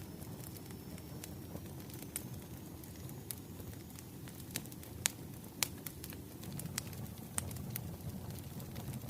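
Wood fire crackling: scattered sharp pops and snaps over a low steady rumble of flames, with the loudest pops about halfway through.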